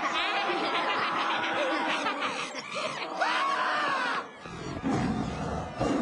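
Cartoon children's voices laughing and shrieking over background music, dropping off about four seconds in.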